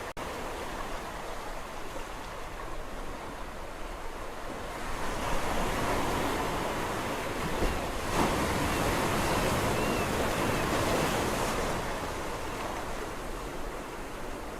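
Sea waves on a shore: a steady wash of surf that swells louder about a third of the way in, holds for several seconds, then eases back near the end.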